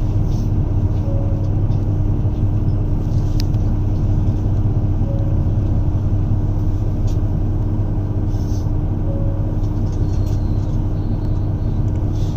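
JR Shikoku 2700 series diesel railcar running, a steady low rumble with a constant hum, heard inside the car. A faint short beep recurs about every four seconds.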